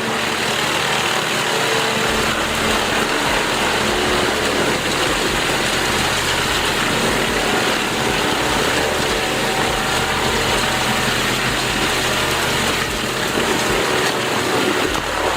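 Vermeer HG4000 horizontal grinder running steadily under load, its engine and grinding drum chewing brash wood into mulch in a dense, continuous machine noise.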